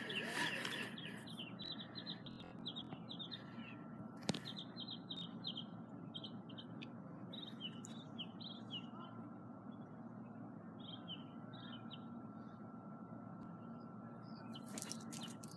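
Small birds chirping: quick runs of short, high chirps in bursts, dying away about twelve seconds in, over a faint steady hum. A single sharp click about four seconds in.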